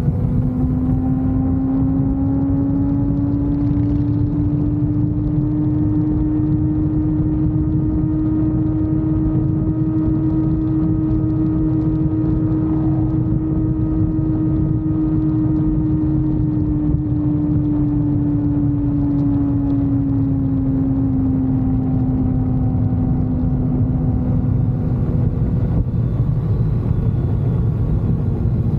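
Motorcycle running at road speed, its engine note rising slightly, holding steady, then easing down about two-thirds of the way through, over a constant low rush of wind and road noise.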